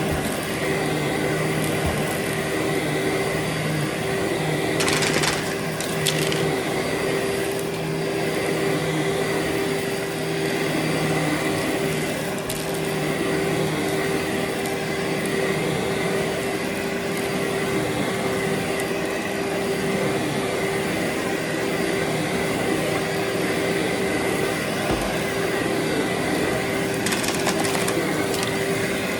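Vacuum cleaner running steadily on a heavily soiled carpet, a constant motor whine over rushing air, with brief rattles about five seconds in and again near the end.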